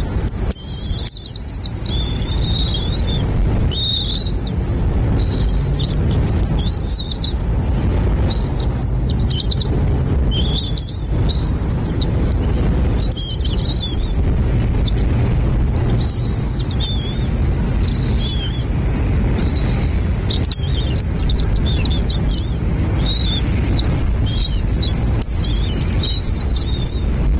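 Nest of young birds calling with repeated high, arching chirps in quick clusters, over a steady low rumble.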